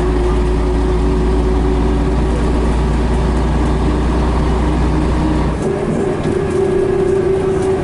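Scania BR111H bus's diesel engine running under way with a steady low drone. About five and a half seconds in, the deep rumble drops away and the engine note changes.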